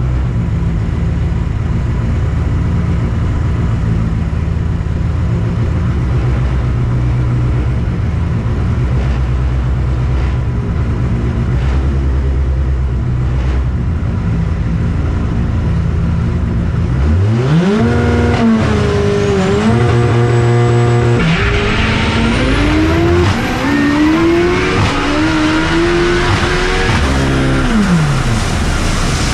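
Car engine running at a steady low, choppy idle, then revving up hard about two-thirds of the way in. It accelerates through several gear changes, its pitch climbing and then dropping at each shift.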